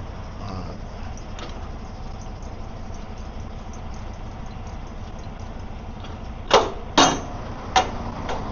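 Semi truck's diesel engine idling steadily, with four sharp metallic knocks near the end, the first two the loudest.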